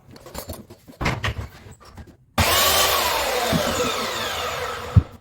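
Power saw cutting through an MDF moulding: it starts abruptly about two seconds in and runs for about two and a half seconds, its whine falling in pitch, ending with a knock. Before it, a few light knocks of the moulding being handled.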